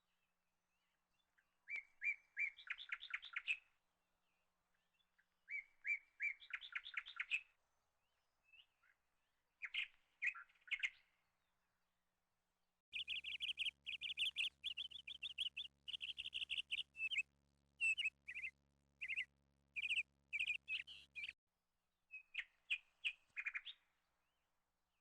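A songbird singing in short phrases of quick, chirping notes, then a longer burst of song a little past halfway and one more short phrase near the end.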